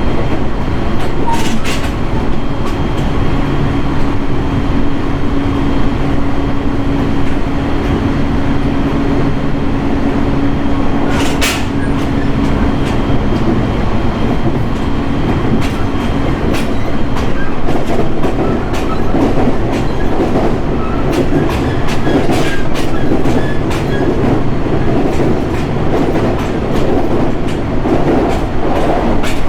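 JR 701 series electric multiple unit heard from inside the car while running between stations: a steady rumble of wheels on rail with scattered clicks and knocks from the track. A steady hum sounds through the first half and fades out about halfway through.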